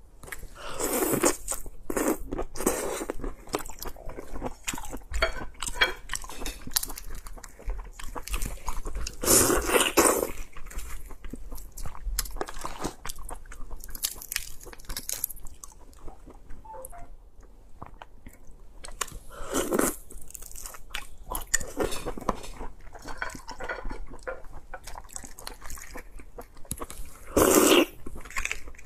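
Close-miked wet chewing and biting of raw red shrimp, with small crackling clicks as the shells are peeled by hand. There are louder mouth bursts about a second in, around ten and twenty seconds, and near the end.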